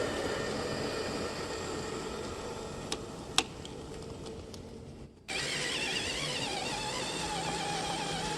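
A scale RC truck's electric motor and drivetrain running, with a sharp click a little past three seconds in. A little past five seconds the sound cuts off abruptly and music with a wavering melody begins.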